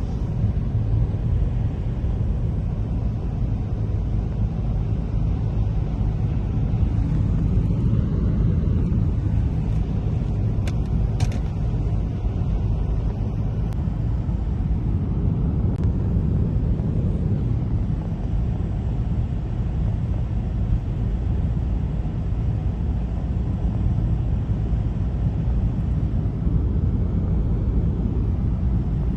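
Steady low rumble, with a few faint brief clicks near the middle.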